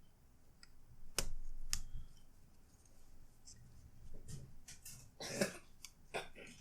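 Sharp clicks and knocks of laptop parts being handled and fitted during reassembly, scattered irregularly, loudest about a second in and in a cluster past the middle.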